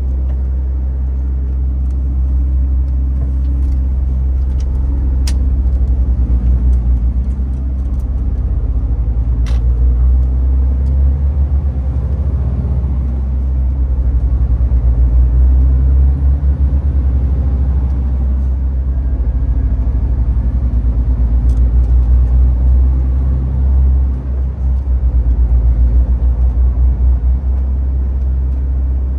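MAN TGX 18.510 truck's six-cylinder diesel engine running under way, with a steady deep rumble of engine and road noise. Its loudness swells and pulses in the middle and later part, and a couple of sharp clicks come through early on.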